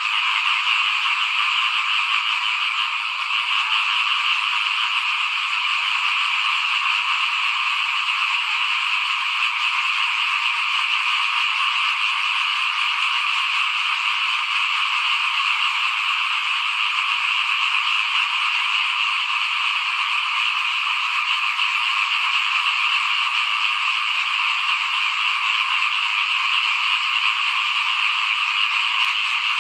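A dense chorus of many small frogs calling all at once without a break, a steady high-pitched din.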